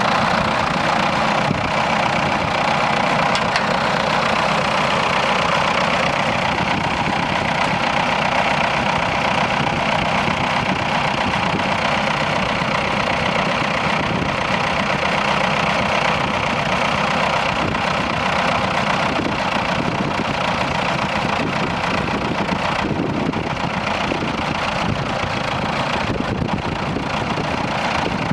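Diesel engines of a Doe Dual Drive (Triple D) twin-Fordson tractor running steadily.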